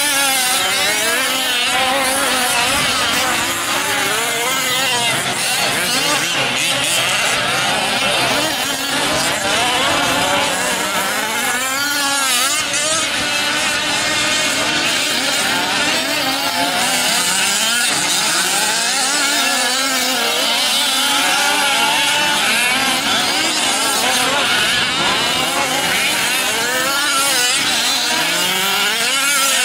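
Several 1/5-scale RC racing trucks' small two-stroke petrol engines, revving up and down over and over, their rising and falling pitches overlapping.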